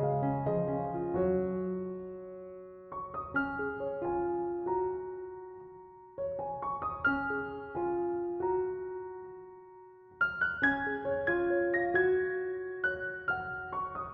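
Background piano music: gentle phrases of notes that ring out and fade, a new phrase starting about every three to four seconds.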